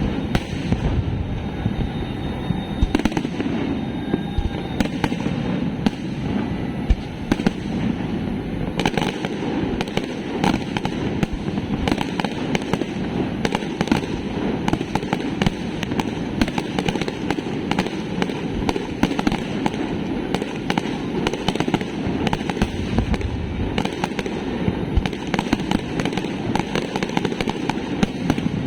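Fireworks display going off without a break: rapid, overlapping bangs and crackles over a steady low rumble of bursts.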